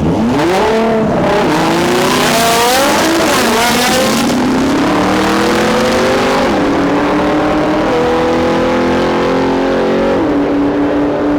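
Race car engine at full throttle on a drag-strip launch. The revs flare and dip at first, then climb steadily, with gear changes about six and a half and ten seconds in.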